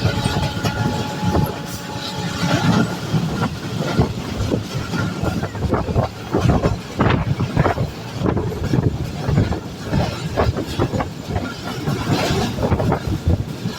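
Train running on the rails, its wheels knocking and clattering irregularly, with a steady high tone that stops about two and a half seconds in.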